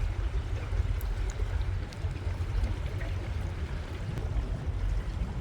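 Narrowboat underway: a steady rush of water noise with a fluctuating low rumble.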